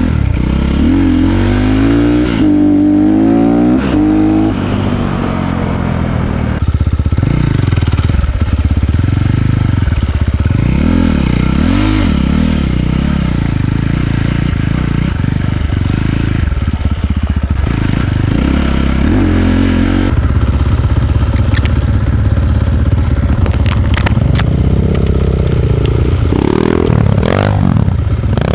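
Enduro dirt bike engine running under riding load, the revs rising and falling again and again as the throttle is worked, with a sharp rev climb near the end. A few short knocks can be heard along with it.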